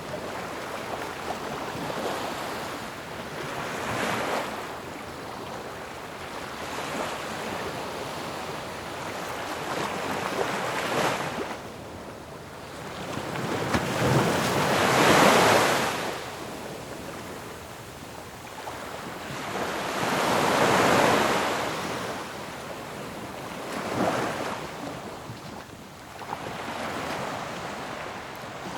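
Ocean waves breaking and washing up on a shore in a continuous surf, with a wave crashing every few seconds; the loudest breaks come about halfway through and again a few seconds later.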